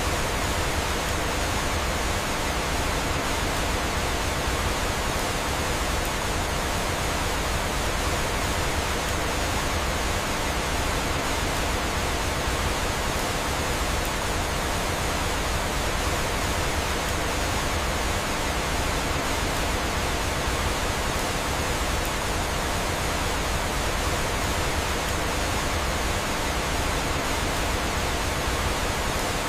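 Steady, even rushing of flowing water from a waterfall.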